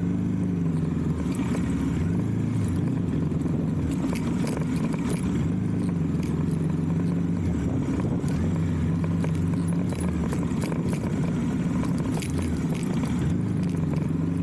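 Motorcycle engine running under way, its pitch stepping up and down every second or two as the throttle opens and closes, with scattered light rattling clicks.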